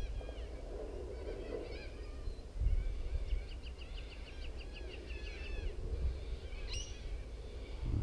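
Birds calling: a rapid run of short, falling whistled notes, about five a second, from about three to six seconds in, with a few scattered notes before it. A steady low rumble runs underneath.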